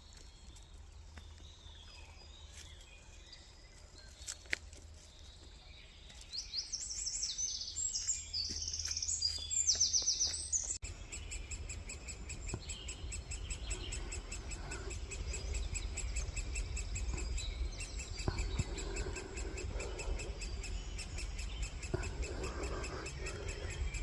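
Songbirds singing, with a burst of rapid, high trills a few seconds in, over a low rumble.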